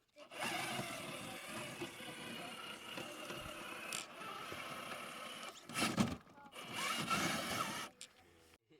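Rlaarlo JK07PRO 1/7 RC trail truck driving, its electric motor and drivetrain whirring steadily, with a few sharp knocks and scrapes about four and six seconds in.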